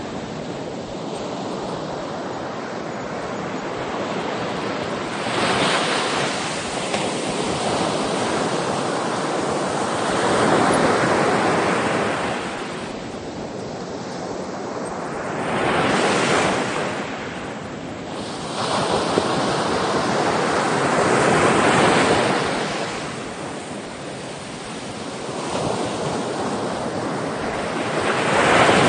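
Ocean waves breaking on a shore in slow swells. Each wave surges up and washes out, about every five or six seconds, over a steady wash of surf noise.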